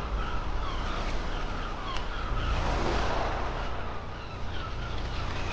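Outdoor traffic ambience: a car passes about three seconds in, over a steady low rumble, with small birds chirping repeatedly.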